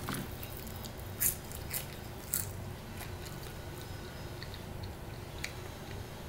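A person chewing fried fish and fries close to the microphone, with three sharp crunchy clicks between about one and two and a half seconds in and a few fainter ones later.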